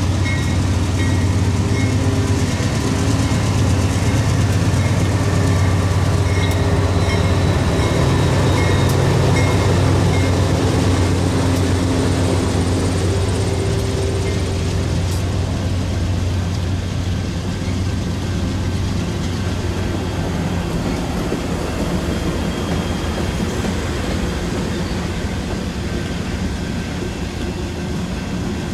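A train rolling by: a steady low engine drone over the noise of wheels on rail, easing off somewhat after about two-thirds of the way through.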